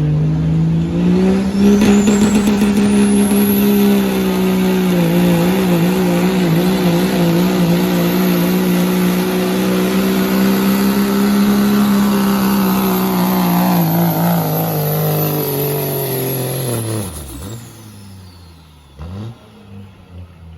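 Diesel pickup truck with a 2.6-inch smoothbore turbocharger making a full-throttle pull. The engine holds high rpm, its pitch wavering for a few seconds, while a high turbo whistle climbs in the first few seconds and then stays on. About 17 seconds in the driver lets off: the engine drops and the turbo whistle falls away.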